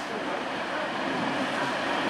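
DB Regio Class 612 diesel multiple unit pulling into the station, a steady rumble of engines and wheels on the track growing louder as it nears.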